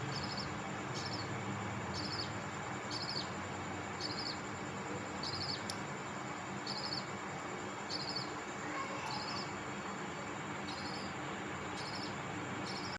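Budgerigar giving short, high trilled chirps, repeated evenly about once a second over a steady background hiss.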